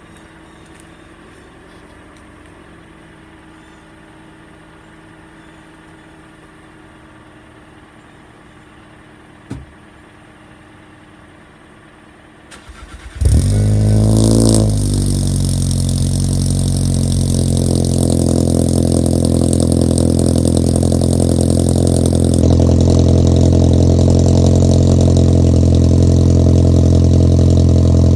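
2017 VW Passat R-Line's turbocharged engine, with an APR downpipe and custom exhaust, cranking and starting about 13 seconds in after a quiet stretch with a single click. It flares up in revs, drops back and settles into a steady, loud idle.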